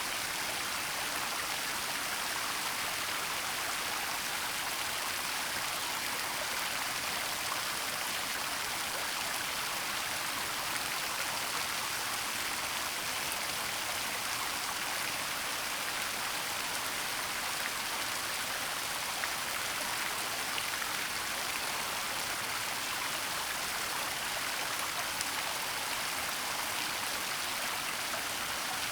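Waterfall and stream water running in a steady, even rush, strongest in the upper range, with no breaks.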